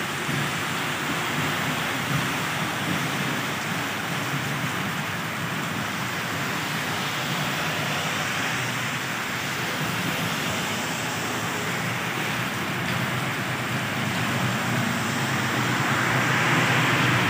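Very heavy rain pouring down steadily, with the hiss of car tyres passing on the waterlogged road swelling and fading.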